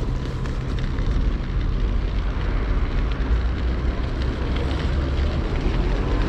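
Steady low rumble of wind buffeting the microphone, with a thin hiss above it.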